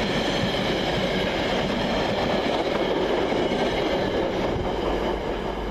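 Freight train wagons behind a Class 66 diesel rolling through the station: a steady rumble of wheels on rail, easing slightly near the end.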